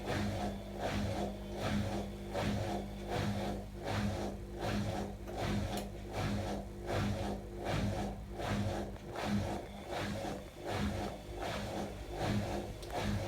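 Atlant washing machine running: a steady motor hum under an even swishing rhythm, about two pulses a second, as the drum turns.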